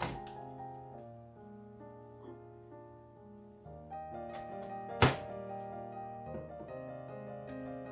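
Soft background piano music with held notes, and a single sharp thunk, like something set down hard, about five seconds in.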